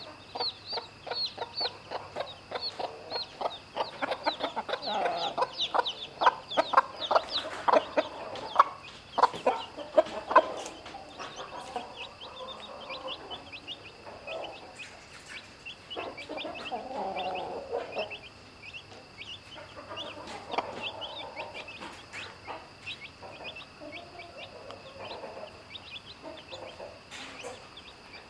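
Chicks peeping constantly in quick, high, falling peeps, with a mother hen clucking low and fast among them, busiest and loudest in the first half, then a few scattered clucks.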